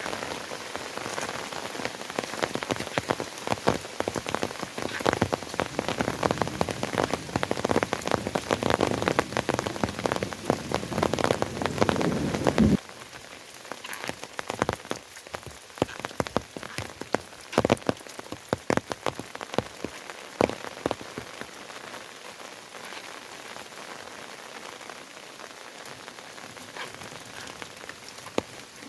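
Steady rain, with many separate drops clicking on a surface. About halfway through it suddenly becomes quieter, with fewer, more scattered drops.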